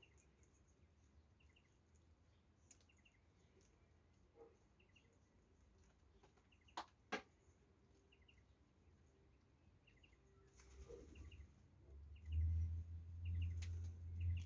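Faint, short bird chirps repeating throughout, with two sharp clicks close together about seven seconds in and a low rumble building over the last couple of seconds.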